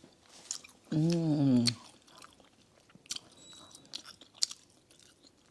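A person chewing and biting food close to the microphone, with scattered short mouth clicks and crunches. About a second in there is a short hummed sound, rising and then falling in pitch.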